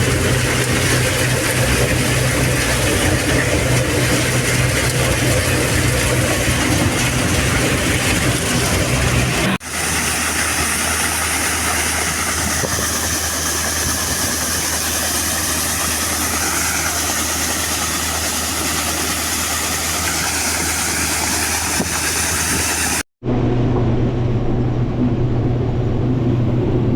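Combine harvester's diesel engine running steadily with a heavy drone. The sound changes abruptly twice: about ten seconds in it drops to a lower, different drone, and near the end it briefly cuts out before the first drone comes back.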